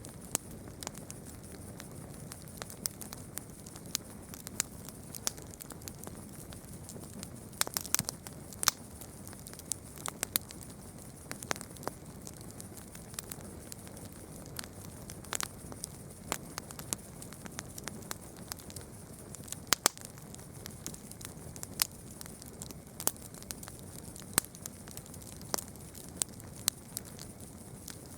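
Campfire crackling: sharp, irregular pops and snaps of burning wood over a soft, steady rustle of the flames.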